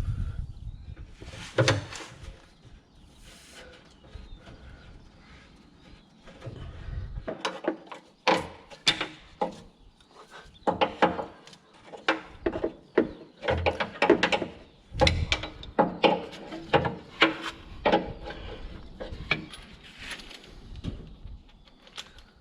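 Irregular clicks and knocks of tools and hydraulic hose fittings being handled and fitted, coming thick and fast from about a third of the way in, with a low rumble near the start.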